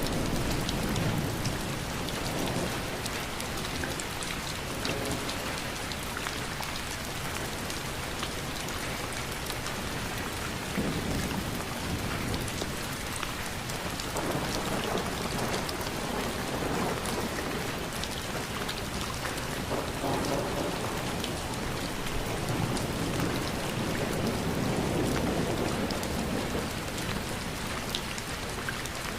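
Steady rain falling, with scattered individual drop ticks. Low thunder rolls in slow swells several times.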